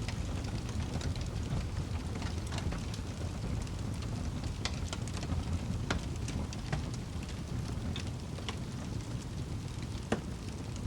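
Wood fire burning in a fireplace: a steady low rumble of flames with scattered crackles and pops, a sharper pop near the end.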